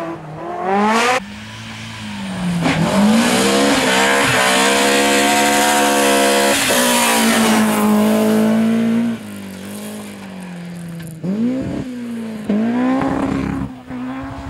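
Historic rally car engine at full throttle, revving up through the gears. It makes a rising rev just after the start, a long loud steady pull in the middle, then eases off and climbs again in short revs near the end.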